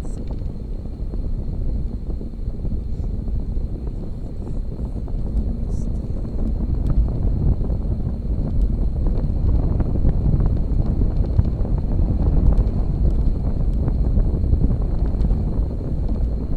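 Wind rumbling on the microphone of a camera on a moving bicycle, with road noise beneath it, getting a little louder after the first few seconds. A faint, thin, steady whine runs above it.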